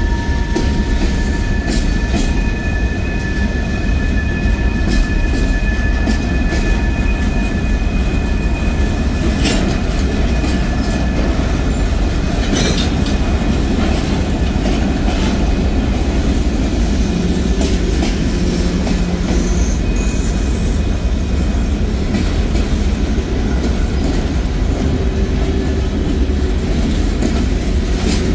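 Freight train cars rolling steadily past at close range: a continuous rumble of steel wheels on rail with a few sharp clacks. A faint, high, steady wheel squeal sounds through roughly the first half.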